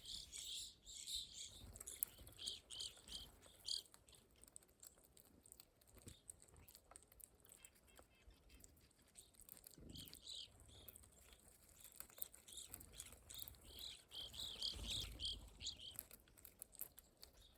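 Faint, short chirping calls of small songbirds at a winter feeder, coming in scattered clusters, with a few light clicks in between.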